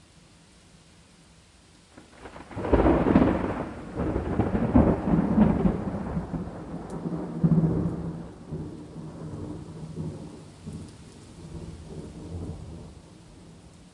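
Thunder over steady rain: a clap breaks suddenly about three seconds in and rolls on in several rumbles, fading away over the next ten seconds.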